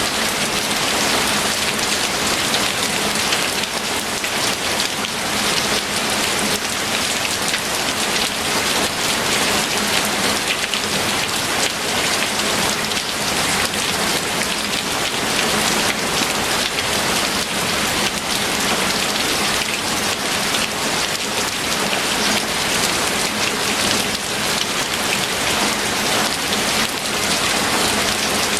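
Steady rain falling on a surface, an even hiss of many close drops with fine individual ticks and no let-up.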